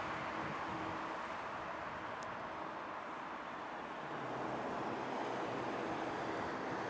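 Fokker 50's twin turboprop engines heard from a distance during landing, a steady rushing noise with a faint hum that eases a couple of seconds in and swells again about halfway through.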